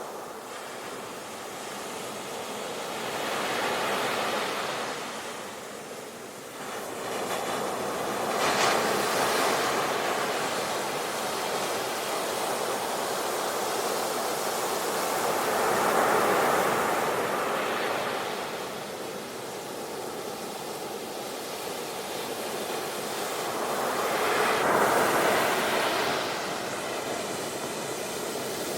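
Ocean waves breaking on a shore, the surf swelling and receding in slow surges about every five to eight seconds.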